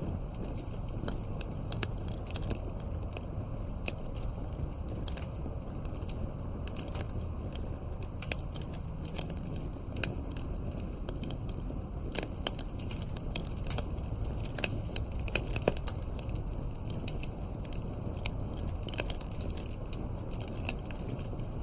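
Wood campfire crackling, with frequent irregular sharp pops and snaps over a low, steady rumble of burning; a few pops stand out louder around the middle.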